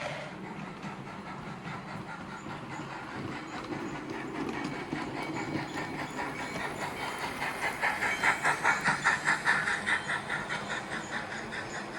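Bachmann Spectrum K4 model steam locomotive pulling passenger cars around the track, with a steady rhythmic pulsing of about four beats a second. The pulsing grows louder past the middle as the train comes close, then eases a little near the end.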